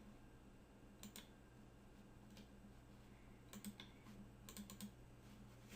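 A few faint, scattered clicks from working a computer keyboard and mouse, in near silence.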